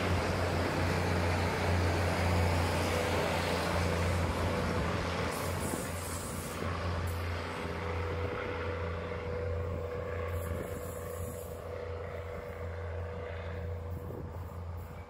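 Diesel railcar passenger train running away along the track, its rumble and wheel noise fading as it draws off, over a steady low hum.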